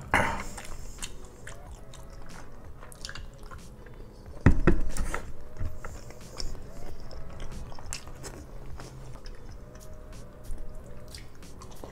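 Close-miked chewing and biting of a grilled giant squid meal, with wet mouth clicks throughout. A loud thump comes about four and a half seconds in.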